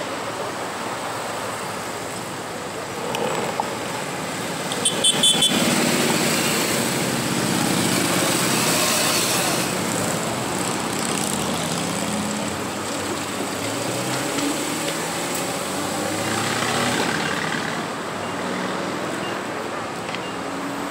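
Porsche 911 Carrera GTS flat-six engine pulling away and accelerating, its pitch rising and then falling, with street traffic. A few short high chirps come about five seconds in, just before the engine note rises.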